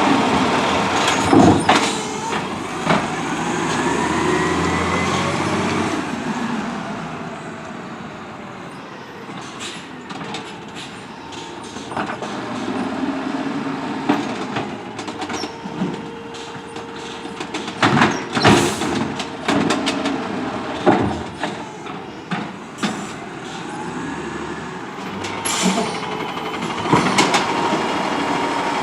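CNG Autocar ACX garbage truck with an automated side-loader arm, its engine running under a rising and falling hydraulic whine. Several loud clanging bangs come through, around a second in, in the middle and near the end.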